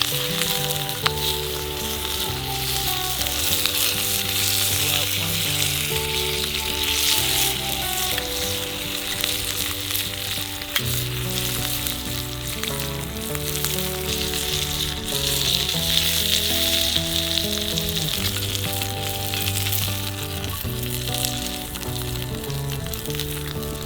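Food sizzling in a hot pan over a wood fire, a steady hiss, with background music of held bass and melody notes playing underneath.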